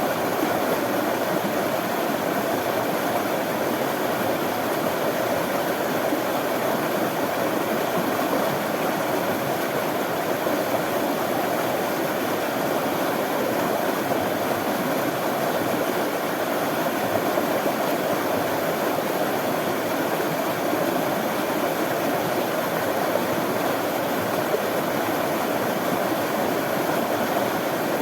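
Running water flowing steadily, a stream's continuous rushing with no breaks or changes.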